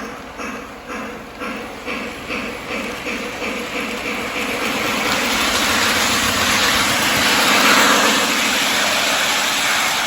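Electronic steam sounds from a Lionel LionChief 0-8-0 toy steam locomotive's speaker. Rhythmic chuffs start at about two a second, quicken, and by about halfway blend into a steady hiss as the engine gets going.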